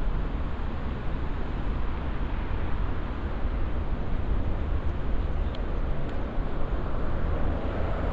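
Steady outdoor city ambience: a constant deep rumble with a wash of noise over it and no distinct events, typical of traffic and crowds in a busy urban area.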